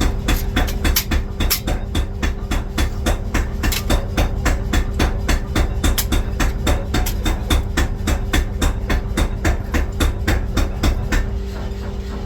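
Rapid, evenly spaced hammer blows on steel, about four a second, over a steady machine hum; the hammering stops about 11 seconds in.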